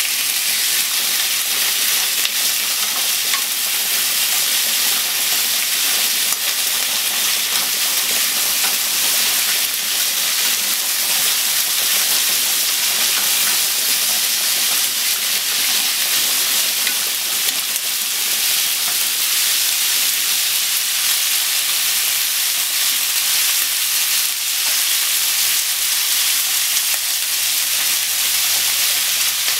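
Sliced onion and meat sizzling steadily in a nonstick frying pan over a gas flame as they are stirred and tossed with chopsticks.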